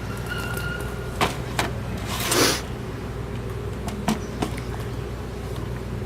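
Steady low hum of many honey bees flying around a freshly opened hive, disturbed and agitated. Several sharp knocks and a brief loud whoosh about two and a half seconds in break through it.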